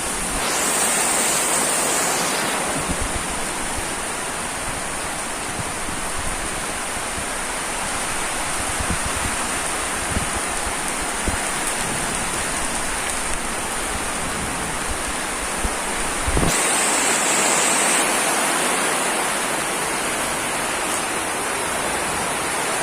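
Heavy rain pouring steadily in a windy storm, with the rush swelling louder twice: about half a second in and again about sixteen seconds in.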